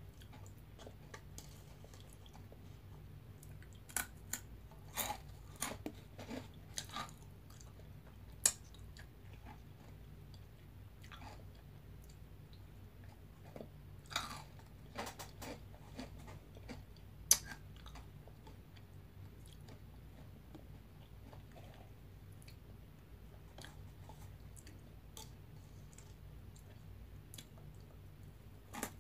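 Crunchy veggie straws being bitten and chewed close to the microphone, in scattered clusters of sharp crunches with quieter stretches between, over a steady low hum.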